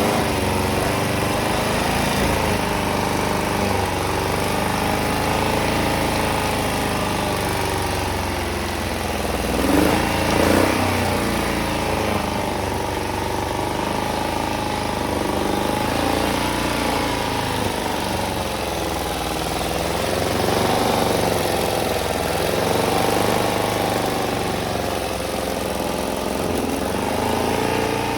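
Long-parked Porsche 914's air-cooled carbureted engine running just after being started, its speed rising and falling unevenly, with two short throttle blips about ten seconds in. The owners reckon it was running on only three cylinders because a spark plug had come out.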